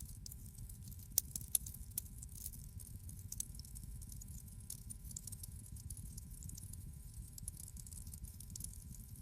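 Fire crackling in a fireplace: a steady low rumble of flames with constant small crackles, and two sharper pops a little over a second in.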